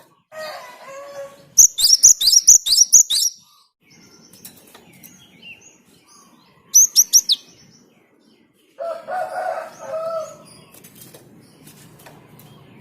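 Java sparrow singing: a rapid run of dry clicks mixed with high, falling, bell-like notes, then a shorter burst of the same a few seconds later. Two lower calls from another bird come at the start and about two-thirds of the way through.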